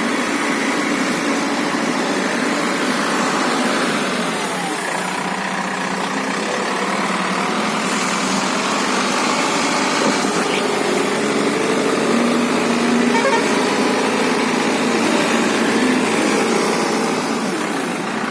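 Cat 424B2 backhoe loader's diesel engine running under load as the machine digs, its pitch shifting up and down as it works, a little louder past the middle.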